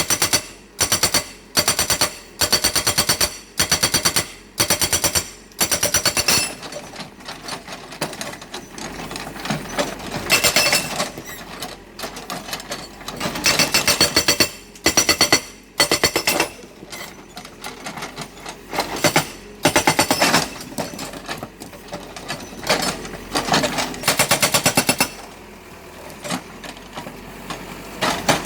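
GB90TL hydraulic breaker with a 90 mm chisel, on a backhoe loader, hammering in short bursts of rapid blows. The bursts come about once a second for the first six seconds, then more irregularly with quieter pauses between them.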